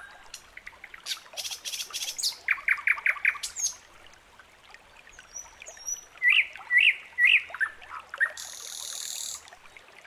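Songbirds chirping and calling: repeated short rising chirps, a quick run of five or six notes about three seconds in, and a brief high hiss near the end.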